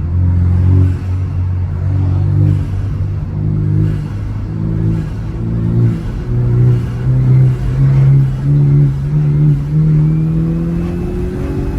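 BMW 428i engine and aFe intake under acceleration, the engine note climbing slowly in pitch as it pulls.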